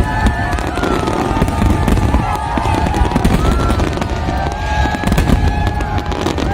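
Fireworks display going off: a continuous rapid crackling and popping over a low rumble.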